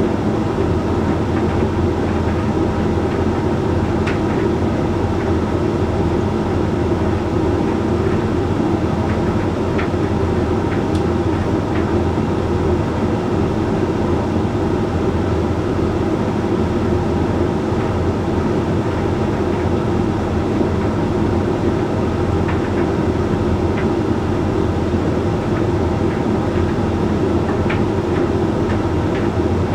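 Hoover Link X Care HLX C10DRGR condenser tumble dryer running steadily mid-way through its Whites drying cycle: a constant hum and rumble of the motor and turning drum, with a few faint ticks here and there.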